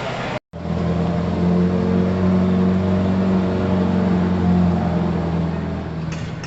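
Ferrari F40's twin-turbo V8 running steadily at low revs as the car rolls out, a deep, even engine note after a sudden cut-in just under half a second in, easing off slightly near the end.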